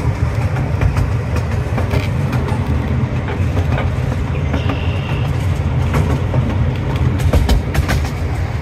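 A zoo's miniature Safari Train rolling along its track, heard from a riding car. It gives a steady low rumble with scattered clicks of the wheels over the rail joints, and a brief high tone about halfway through.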